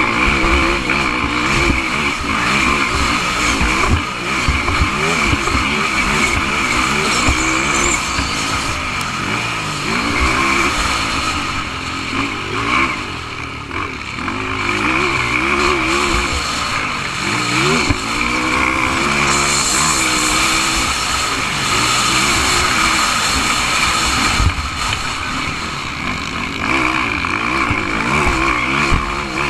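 Several motocross bikes racing, their engines revving up and dropping off again and again as they accelerate, shift and back off around the track.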